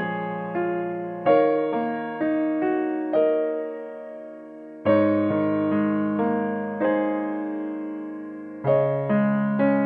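Background piano music: slow, gentle chords struck every second or two, each ringing and fading.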